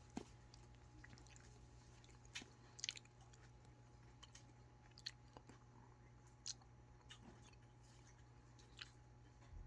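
Faint, sparse clicks of a cat chewing and biting at a piece of meat, with long gaps between them over near silence.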